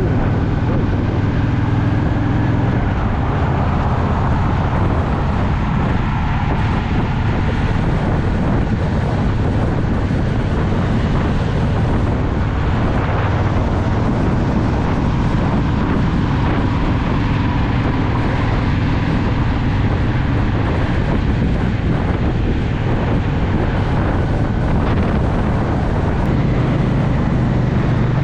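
Honda Shadow VT750's V-twin engine running on the move, its note rising and falling with changes in speed, with wind noise on the microphone.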